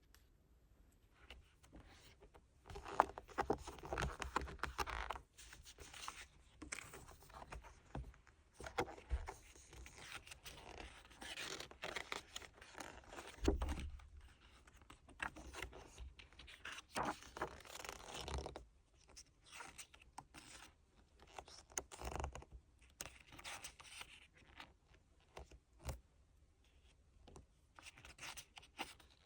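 Hands handling a photobook album and its paper and plastic packaging: irregular rustling and scraping that comes and goes, with a couple of soft knocks.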